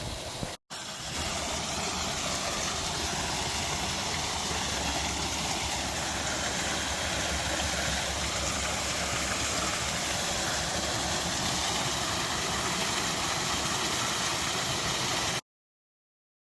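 Waterfall: a steady rush of falling water. It drops out briefly about half a second in and cuts off abruptly near the end.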